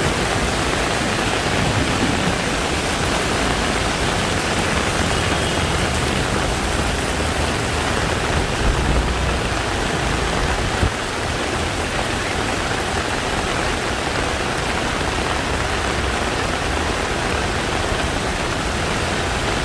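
Heavy rain pouring down, an even steady hiss with no letup.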